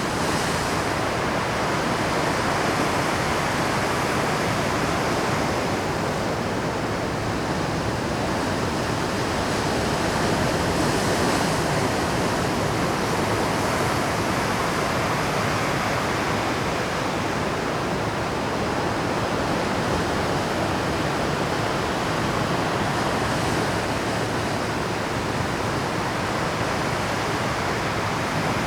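Rough Pacific surf breaking continuously against a rocky shore: a dense, steady wash of churning water that swells slightly as each wave lands.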